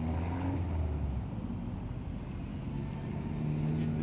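Engines of open-wheeled kit-car roadsters driving past one after another at low speed on cobblestones. One car's low engine drone fades about a second in, and the next car's engine grows louder near the end.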